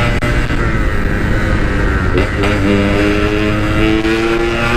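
Yamaha RX-King 135 cc two-stroke single-cylinder motorcycle engine running under way. Its note eases down slightly, changes about two seconds in, then holds and edges back up.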